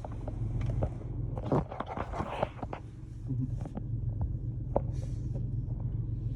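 Automatic car wash heard from inside the car: a steady low rumble, with irregular knocks and bursts of spraying noise against the car during the foam stage.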